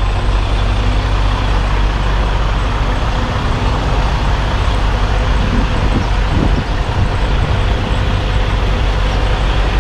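Semi tractor's diesel engine running steadily at low revs while the tractor-trailer is backed up, a constant low drone.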